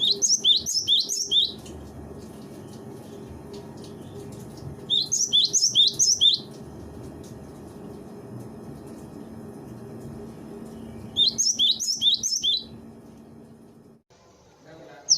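Cinereous tit (gelatik batu) singing: three bursts of quick, high, downslurred notes, each about a second and a half long, spaced several seconds apart. A steady low background noise runs underneath.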